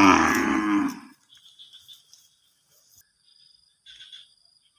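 A cow mooing once, a loud low call that ends about a second in. Faint high chirping follows near the end.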